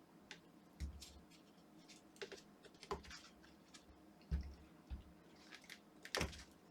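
Faint scattered plastic clicks and a few soft knocks from a Philips Sonicare toothbrush handle being squeezed and worked by hand to force a stuck inner part out.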